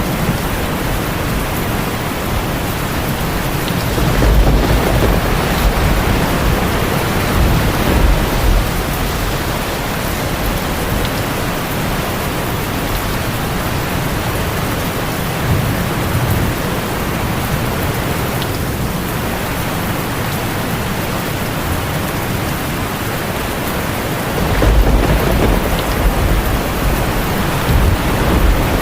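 Heavy rain drumming steadily on a tin roof, with low rumbles of thunder about four seconds in and again near the end.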